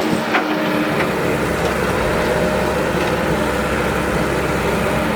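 Excavator's diesel engine running steadily, with a couple of faint clicks about half a second and a second in.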